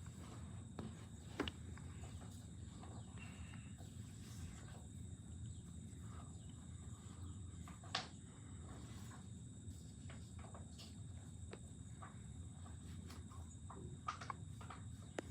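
Outdoor rural ambience: a steady high insect drone over a low rumble, with scattered faint clicks and knocks as the fawns step and feed at the deer feeder, the sharpest about a second and a half in, near the middle and near the end.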